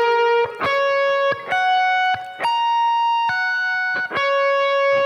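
Clean-toned electric guitar through an Axe-Fx II amp modeller playing a single-note arpeggio line, about nine held notes, some sliding into the next. The notes alternate between F sharp major and E major triads, which gives a Lydian sound over E major.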